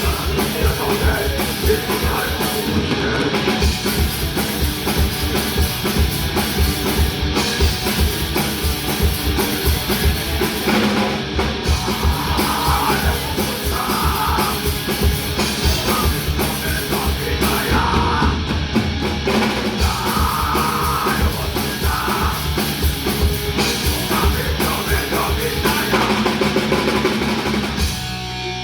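A hardcore punk / crossover thrash band playing live: distorted electric guitar, bass guitar and a drum kit with rapid kick-drum hits.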